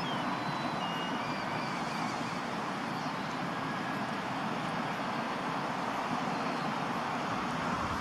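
Steady wash of road traffic noise, with a few faint high chirps in the first few seconds.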